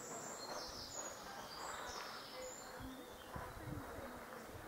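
Outdoor ambience with birds chirping in short, scattered high calls over a steady background haze.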